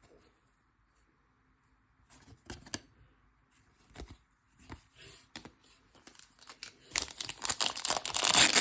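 Trading cards being handled with light clicks and rustles, then a foil card pack wrapper being torn open and crinkled loudly near the end.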